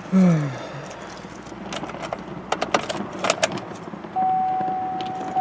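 Keys jangling and clicking at the ignition of a 2005 GMC Canyon. About four seconds in, a steady electronic warning chime starts from the dashboard, a single tone repeating about once a second, the key-in or ignition-on chime before the cold start.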